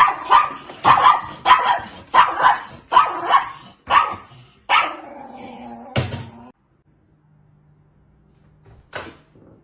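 A dog barking in a quick run of loud barks, about two a second, for roughly four seconds, then a softer drawn-out whimpering sound. After that only a faint low hum and a single click near the end.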